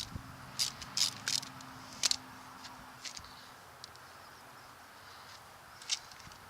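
Hand ratchet wrench clicking in a few short runs in the first two seconds, loosening the U-joint cap bolts on a truck drive shaft. A faint low hum fades out after about three and a half seconds.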